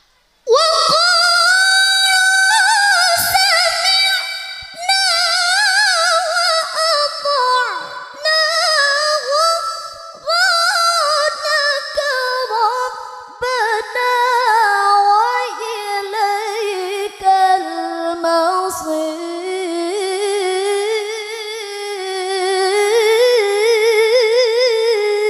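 A woman's voice in melodic Qur'an recitation (qiroah), sung in long drawn-out phrases with wavering ornaments. It begins about half a second in and settles to a lower pitch in the second half.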